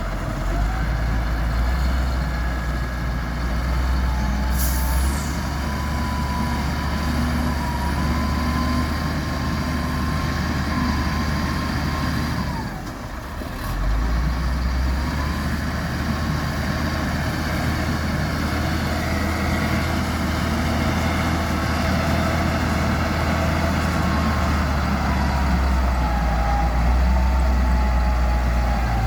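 Heavy diesel engine running steadily under load as sand is loaded into a dump truck, with a faint wavering whine above it. The engine sound drops briefly about halfway through, then picks up again.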